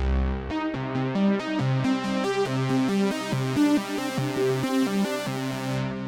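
Behringer Poly D analog synthesizer playing a fast run of short notes, about five or six a second. The deep bass notes stop about half a second in, and the bright top end fades away near the end.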